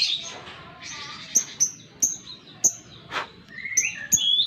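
Lovebird calling: short, sharp high chirps a few times a second, with a rising, chattering trill near the end.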